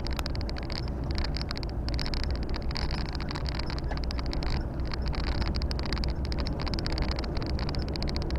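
Volvo FH 460 truck's six-cylinder diesel engine running steadily while driving, with road and tyre noise and a steady high hiss.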